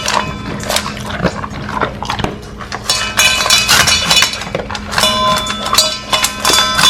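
A large dog eating dry kibble from a bowl: fast, irregular crunching and chewing.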